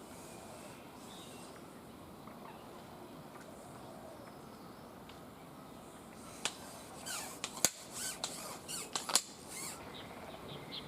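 Quiet waterside reed-bed ambience. About two-thirds of the way in comes a cluster of sharp clicks and knocks lasting about three seconds. Near the end a frog starts calling in quick short notes.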